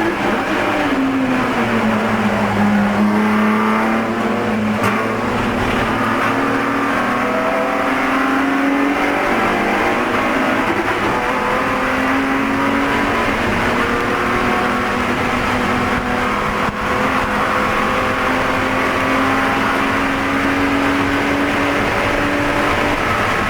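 BMW Spec E46 race car's inline-six engine under racing load, heard from inside the car. The revs fall over the first couple of seconds, then climb and stay high with small dips.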